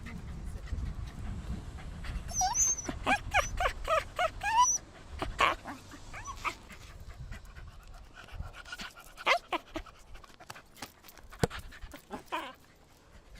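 A dog whimpering in a quick run of short, high-pitched whines, with panting and a few more whimpers later.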